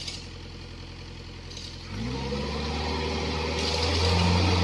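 Excavator diesel engine idling steadily, then revving up about two seconds in and holding at the higher speed, growing louder near the end.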